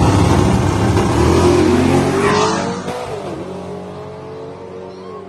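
Two fifth-generation Camaro V8s, one a nitrous-fed 434 stroker and the other naturally aspirated with heads and cam, launching side by side in a drag race. The engines rev hard and climb in pitch for about two seconds, then fade as the cars pull away.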